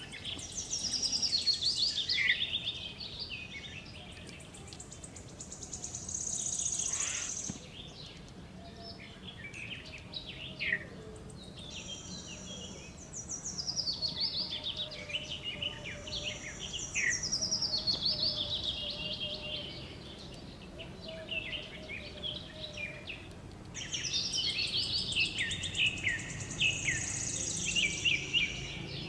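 Several birds chirping and calling over one another in bouts of quick chirps and falling trills, with steady background noise underneath.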